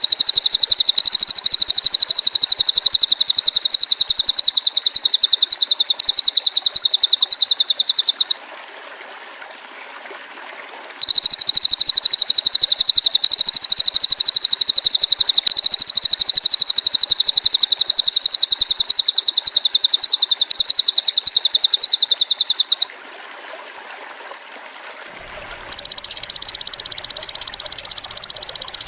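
Masteran recording mixing a small minivet (cililin) and a golden grasshopper (belalang emas): long passages of a very fast, high, evenly pulsed trill, broken by two short pauses about 8 and 23 seconds in. Near the end a different, smoother high-pitched sound takes over.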